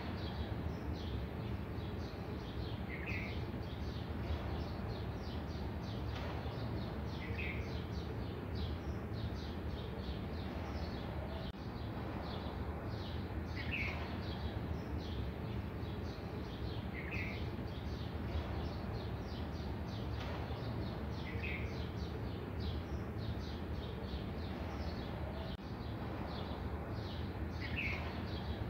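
Birds chirping, with one short call repeated about every three to four seconds, over a steady low hum.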